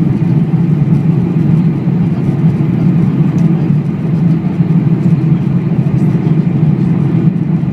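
Jet airliner's engines during take-off: a loud, steady drone.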